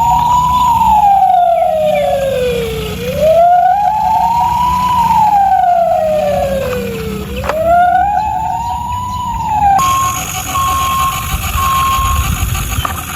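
Electronic siren of a toy ambulance wailing in slow rise-and-fall sweeps, three of them. About ten seconds in it switches abruptly to a different pattern of short repeated beeps.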